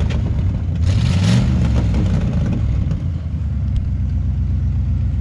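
Truck engine revving up and back down once about a second in, then running steadily. The clutch has just burned out, so the revs go nowhere.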